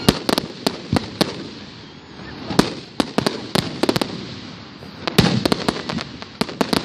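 Fireworks going off: a rapid, irregular run of sharp cracks and pops. They come in clusters near the start, around the middle and again near the end.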